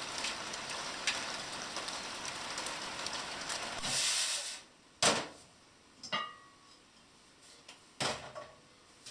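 Steady hiss of falling rain that swells and then cuts off abruptly about halfway through. Three sharp knocks follow in the quiet, the second with a brief ringing tone.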